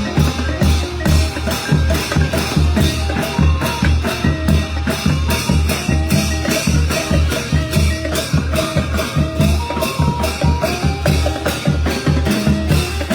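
Thai brass band (trae wong) playing a lively procession tune: a fast, steady drum beat with percussion under a held horn melody.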